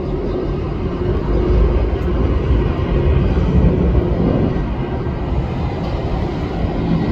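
Jet engines of a Boeing 787 airliner rumbling as it passes. The deep rumble swells between about one and a half and four seconds in.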